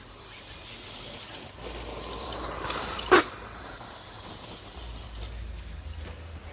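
Radio-controlled stadium truck passing close on a dirt track, its running noise swelling and fading, with one sharp loud knock about three seconds in as it lands or strikes something.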